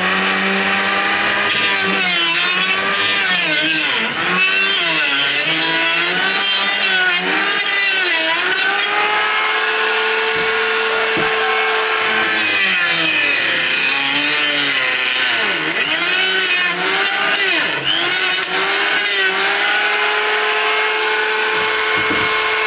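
Chainsaw engine running hard, its pitch sagging and recovering again and again as it bites into wood.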